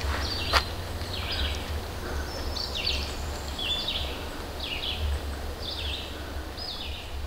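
A songbird singing short, high phrases repeated about once a second over a low steady rumble, with one sharp click about half a second in.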